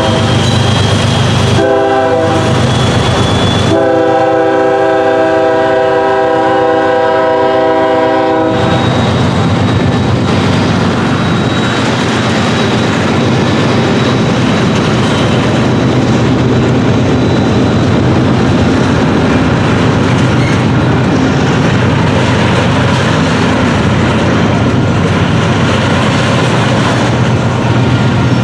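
Locomotive horn sounding a chord in several blasts with short breaks, stopping about eight and a half seconds in, then a train passing close with a steady rumble and wheel noise on the rails.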